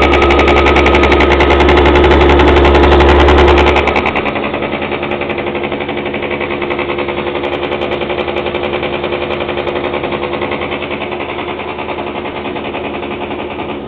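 Small 49cc scooter engine running after carburettor work: held at higher revs for about four seconds, then dropping back to a steady, lower-speed run.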